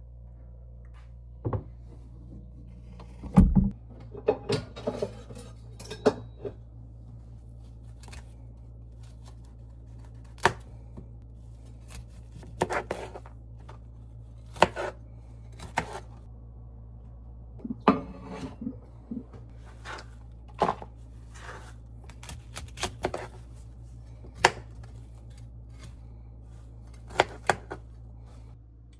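Dishes, utensils and pots clinking and knocking in a kitchen, irregular sharp clacks with a heavier thump about three seconds in, over a steady low hum.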